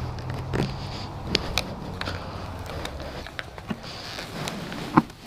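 Footsteps and scattered sharp clicks of handling noise while walking, over a low steady hum; the loudest click comes near the end.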